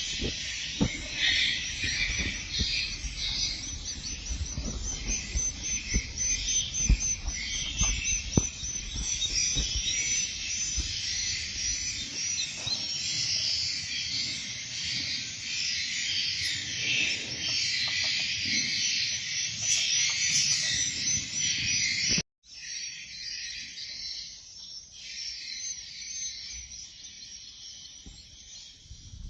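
Edible-nest swiftlets twittering: a dense, continuous mass of high chirps, with scattered low knocks in the first half. The audio cuts abruptly about two-thirds through, and the chirping carries on thinner and quieter.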